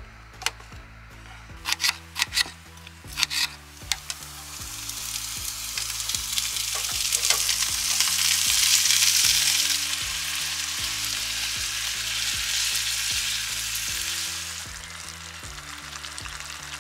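Food frying in a hot pan: the sizzle swells to a loud hiss about five seconds in and eases off near the end, after a few sharp knocks early on. Background music plays underneath.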